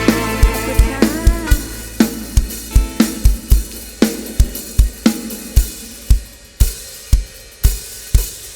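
Live band playing an instrumental passage driven by a drum kit: a steady beat of kick and snare with cymbals, with melodic instrument lines in the first couple of seconds before the drums carry on largely alone.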